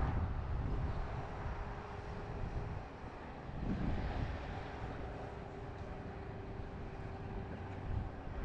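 Outdoor rumble of a passing motor vehicle, with a faint steady hum in the middle, over wind buffeting the microphone.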